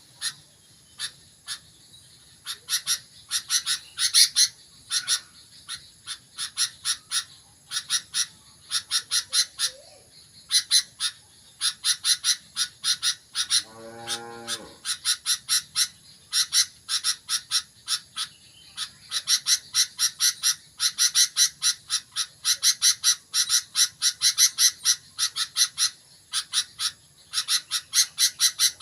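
Sooty-headed bulbul (kutilang) calling actively in quick runs of short, sharp chirps. A brief lower call is heard about halfway through.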